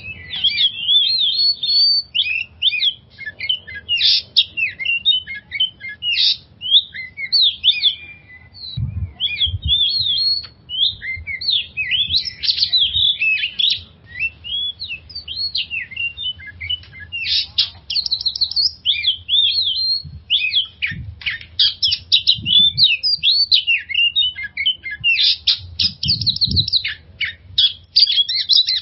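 Oriental magpie-robin (kacer) singing a fast, varied stream of high whistles, chirps and trills with hardly a break: a lure song meant to set other magpie-robins singing. A faint low rumble with a few dull thumps runs underneath.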